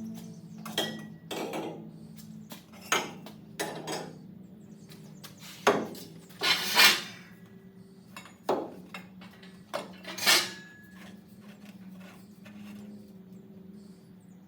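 Irregular metallic clanks and clinks of tools and metal parts being handled, about ten of them, with a longer rattle in the middle, over a steady low hum.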